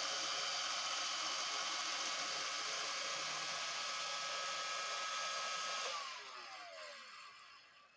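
Roomba robot vacuum running with a steady motor whine and fan noise, which switches off about six seconds in and winds down with falling pitch as the robot reaches its dock.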